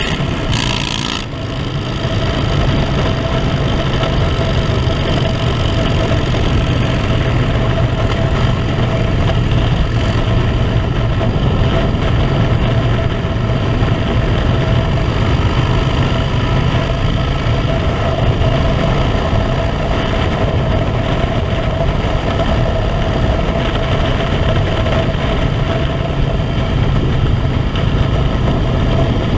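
Harley-Davidson V-twin motorcycle engine running steadily under way, with wind rush over the microphone; the sound dips briefly about a second in.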